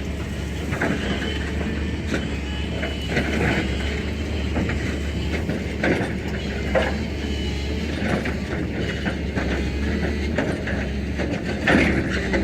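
Heavy tracked earthmoving machine working: a steady diesel engine hum under irregular metallic clanks and knocks, the loudest near the end.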